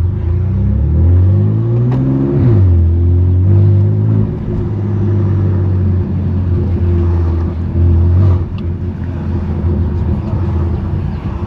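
BMW F80 M3 Competition's twin-turbo S55 inline-six with a straight-pipe exhaust, pulling up through the revs for about two seconds, dropping pitch at an upshift about 2.5 s in, then running at steady cruising revs.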